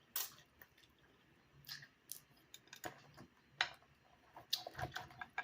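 Boiled crab shells being cracked and picked apart by hand, with chewing. A scatter of separate sharp cracks and clicks, about seven in all.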